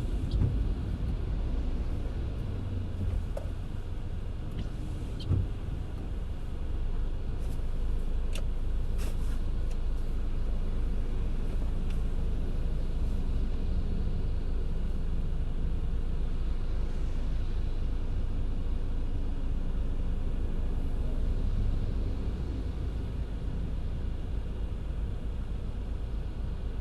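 Car driving in the rain: a steady low road and engine rumble with an even hiss over it. A few light ticks come about eight to nine seconds in.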